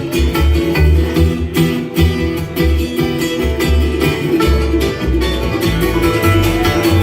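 Bluegrass band playing an instrumental passage: quickly picked acoustic guitar and banjo notes over a steady low bass line.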